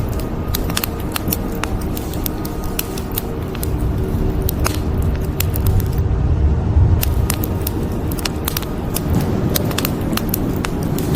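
Wood fire crackling with frequent sharp pops over steady rain, while a low rumble of thunder swells and peaks about six seconds in.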